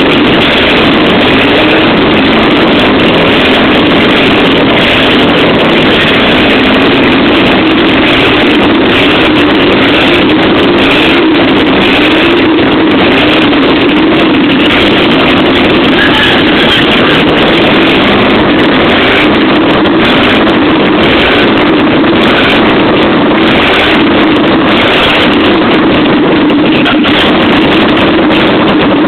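Chevrolet Opala straight-six engine running with no exhaust system fitted, a steady, deafening open-exhaust noise.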